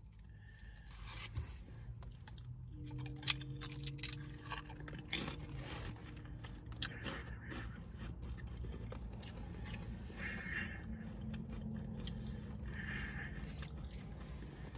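Pringles Harvest Blends potato crisps being bitten and chewed, with scattered crisp crunches over a low steady hum.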